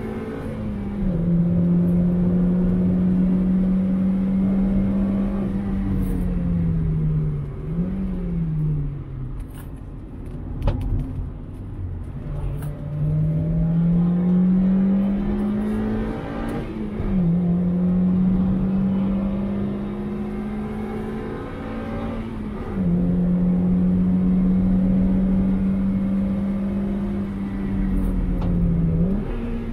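A 2001 Mazda MX-5's 1.8-litre four-cylinder engine heard from the driver's seat on track, running hard at high revs. Its pitch drops at each upshift, falls away under braking about seven seconds in with a short throttle blip on the downshift, then climbs steadily as the car accelerates again, over wind and tyre noise.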